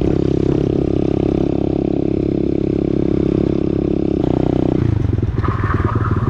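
Pit bike's single-cylinder four-stroke engine running steadily at held revs, then dropping to slower revs with separate, evenly spaced pulses about five seconds in.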